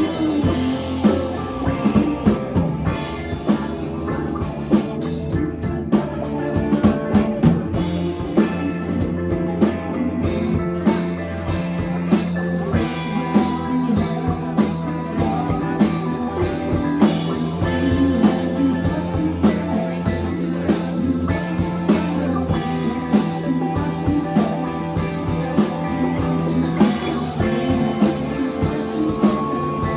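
Rock band playing live: guitar over a drum kit keeping a steady beat, with no singing.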